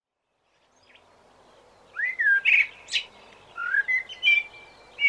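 Bird chirping and tweeting: a run of short calls starting about two seconds in, several of them sliding down in pitch.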